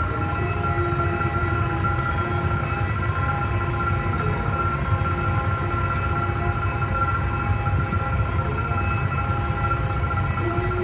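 Steady mechanical running sound: a continuous low rumble with several steady whining tones above it, unchanged throughout.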